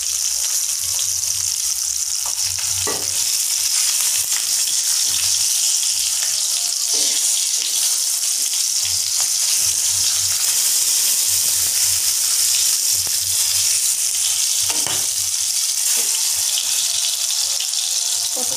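Whole peeled pointed gourds (potol) sizzling as they fry in hot mustard oil, a steady hiss, with a couple of short knocks of the wooden spatula turning them in the pan.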